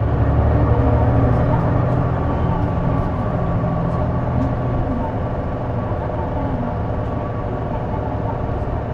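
Diesel engine of a J-Bus city bus running under way, heard from inside the cabin: a low engine drone that eases off about four to five seconds in, with a steady high whine over it. The owner describes the bus as making a mysterious abnormal noise from around the exhaust or turbocharger.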